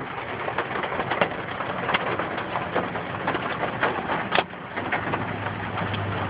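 M&M-sized hail hitting a truck: a dense, steady patter of ice pellets with many sharper individual hits scattered irregularly through it.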